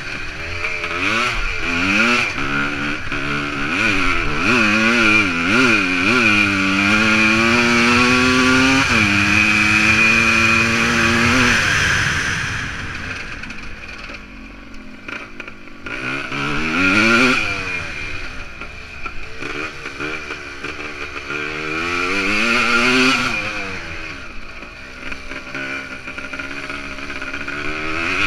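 Suzuki PE250's two-stroke single-cylinder engine under hard acceleration, its pitch climbing and dropping again and again with throttle and gear changes. About a third of the way in it holds one steady high note for a few seconds, dies down just past the middle, then climbs twice more.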